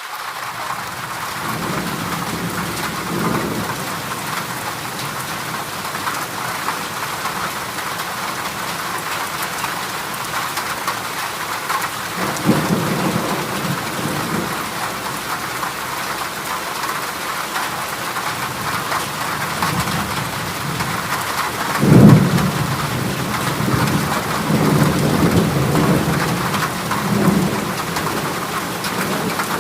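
Heavy rain pattering steadily on a corrugated zinc roof, with rolls of thunder: several low rumbles and one sudden, loud clap about two-thirds of the way through.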